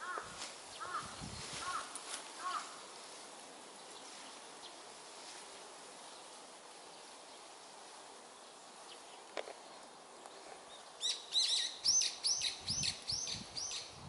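Wild birds singing: a few repeated mid-pitched notes about half a second apart at the start, then a quieter stretch, then near the end a loud, fast run of high repeated notes.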